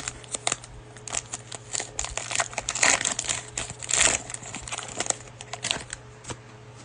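Cellophane wrapper of a basketball card cello pack crinkling and tearing as it is opened and handled, a dense run of irregular crackles and rustles that dies away about six seconds in.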